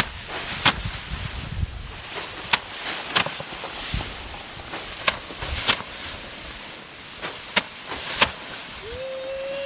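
Hand harvesting of rice: sharp, crisp strikes on rice stalks at an irregular pace of about one a second, over a steady rustling hiss. A short rising tone comes near the end.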